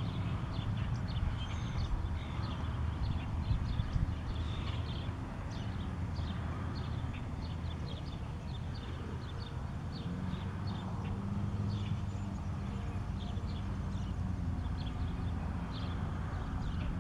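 Small birds chirping in short, high notes, many times over, above a steady low rumble.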